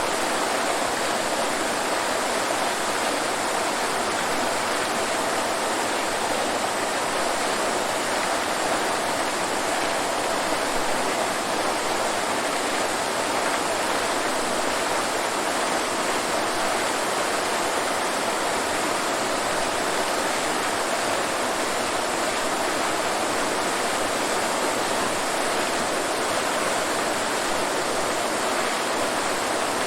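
Waterfall: falling water rushing steadily and without a break, bright and hissy with little deep rumble.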